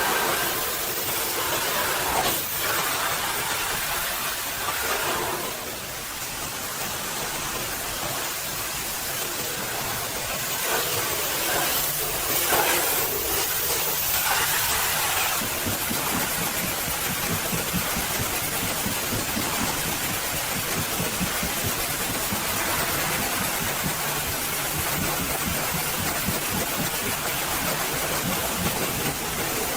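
Pressure-washer spray hissing against a truck, with a motor running steadily underneath. The spray swells and fades in the first half; from about halfway a low, fast-pulsing running sound comes to the fore.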